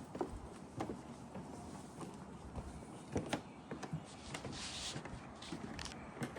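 Footsteps of a person walking on a wooden boardwalk: irregular knocks and creaks about one or two a second, with a brief hiss about four and a half seconds in.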